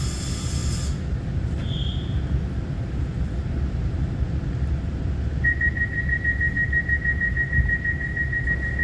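Running noise inside an EMU900-series electric commuter train on the move between stations: a steady low rumble of wheels on track. A steady high whistling tone comes in a little past halfway and holds.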